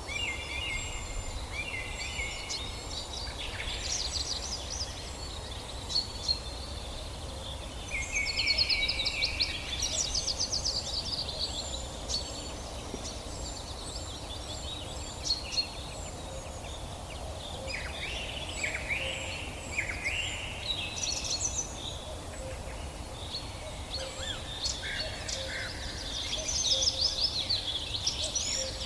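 Several songbirds singing and chirping in overlapping phrases, with a short high note repeated over and over, above a steady low rumble of background noise.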